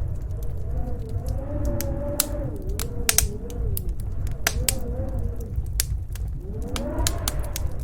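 Wood fire crackling with frequent sharp pops over storm wind: a low steady rumble and a howl that wavers up and down in pitch, swelling again near the end.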